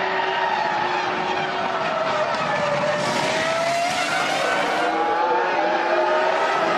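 Formula One car's 3.0-litre V10 engine running at racing speed. The engine note falls to a low point about three seconds in and then climbs again, with a brief hiss of noise in the middle.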